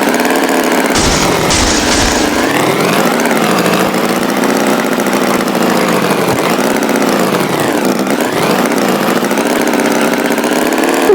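Tractor engine sound effect running continuously, its pitch slowly sagging and rising as it revs, with a few short hissing bursts about a second in.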